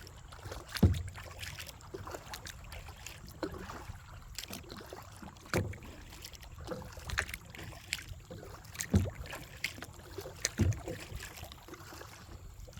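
Kayak being paddled up a shallow creek: water sloshing around the hull with scattered sharp knocks of paddle and hull. The loudest knock comes about a second in, and three more strong ones are spread through the rest.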